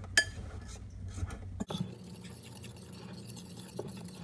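A utensil stirring egg batter in a bowl, with a sharp clink against the bowl near the start and lighter clicks and scrapes after it.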